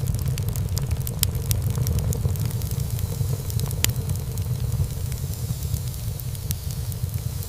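Wood fire burning in a fireplace: a steady low rumble of flame with many sharp crackles and pops of burning wood scattered throughout, one louder pop about four seconds in.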